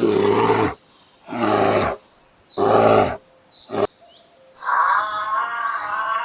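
Animal calls: three loud, harsh calls about a second apart and a short fourth one, then a long, higher, steadier call that starts about three-quarters of the way in and carries on.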